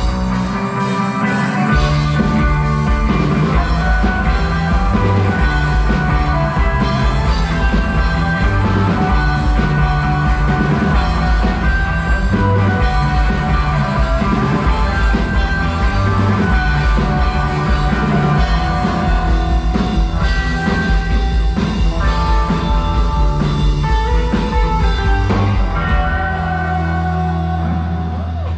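Live rock band playing an instrumental passage in a psychedelic rock style, then holding one long low chord near the end.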